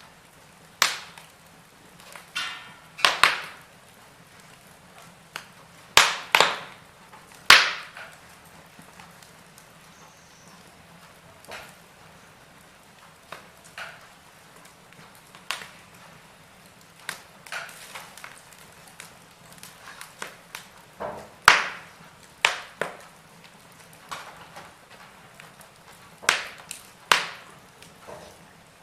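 Wood fire burning in a fireplace, crackling with irregular sharp pops and snaps, several of them loud.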